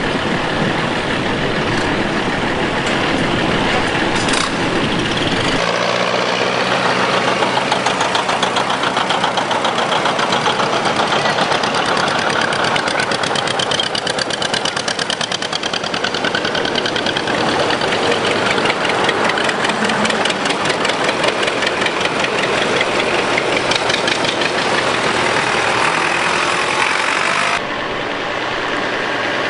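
Antique tractor engines starting and running at idle, a dense rapid firing beat of more than one engine together. The low rumble drops away about five seconds in, and the sound changes abruptly near the end.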